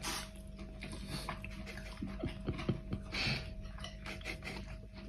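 Small sounds from a pet dog, a few short falling whimper-like notes about halfway through, amid soft clicks and rustling over a steady hum.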